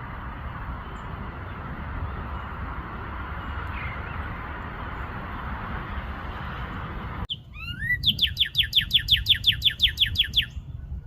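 Steady rushing noise, then a sudden cut to a songbird singing: a few rising notes followed by a fast run of about twenty down-slurred whistles, roughly seven a second, lasting a couple of seconds.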